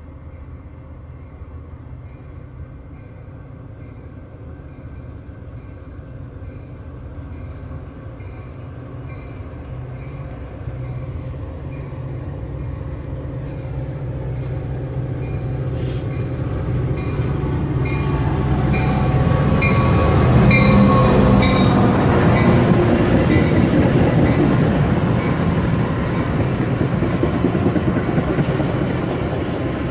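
Metra diesel-hauled commuter train approaching, its rumble growing steadily louder, then passing close at speed from about two-thirds of the way in, with the bilevel cars' wheels clattering on the rails. A faint high ding repeats at an even pace until the train arrives.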